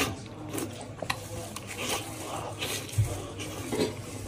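Wet chewing and lip smacking while eating braised hooves coated in chili oil, in irregular sticky clicks and smacks, with a dull thump about three seconds in.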